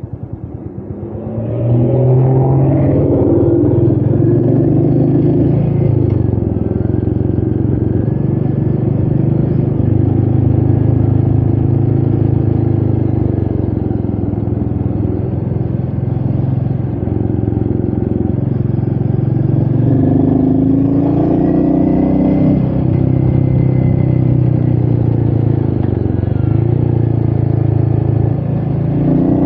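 Royal Enfield Meteor 350's single-cylinder engine, ridden from a chest-level microphone: low, pulsing revs for the first second and a half, then pulling loudly under load. The revs rise and drop several times, about two seconds in, around twenty seconds and again near the end.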